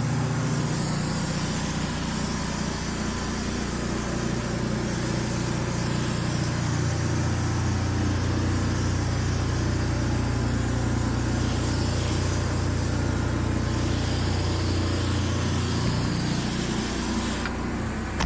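An engine running steadily, a constant low drone with an even hiss over it; the hiss drops away near the end.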